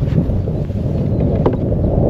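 Wind buffeting the microphone in a steady low rumble, with a single light knock about one and a half seconds in.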